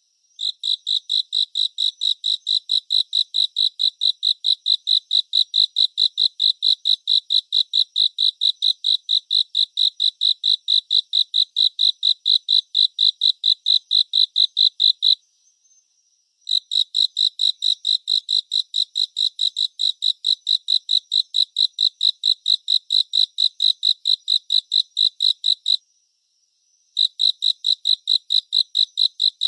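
A cricket chirping in rapid, evenly spaced pulses with a high, clear pitch. It sings in long runs, pausing twice for about a second before starting again.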